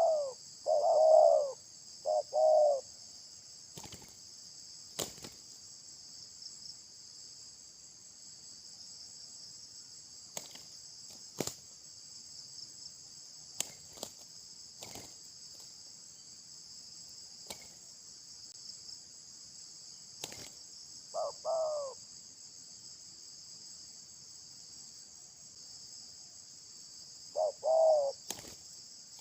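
Bird calls in short bursts of arching notes: a quick run of four or so at the start, a pair about 21 seconds in and another near the end. A steady high chorus of insects hums throughout, broken by several sharp clicks.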